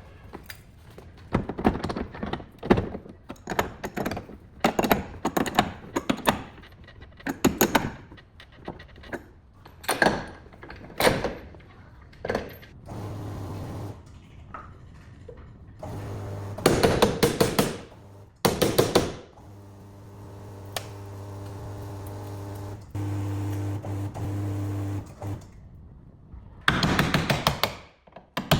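Car body-shop work: a run of sharp knocks and clunks of metal parts being handled and struck, then a power tool running in several bursts, some short and loud, one held for a few seconds.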